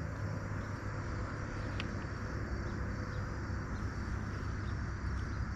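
Steady rushing of river water flowing over shallow riffles, with a couple of faint ticks.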